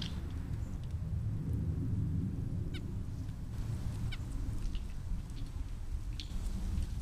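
Short, high bird calls: two quick descending chirps a few seconds in and a brief chip near the end, over a steady low outdoor rumble.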